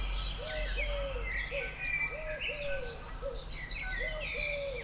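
Several birds calling at once: a low call repeated over and over in short groups, under many higher, quick chirps and whistles.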